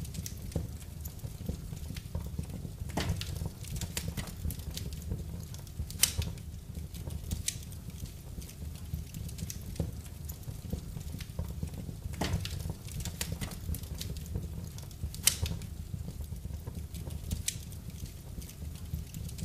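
Fire crackling in a fireplace: irregular sharp pops and snaps, a few louder ones spread through, over a steady low rumble.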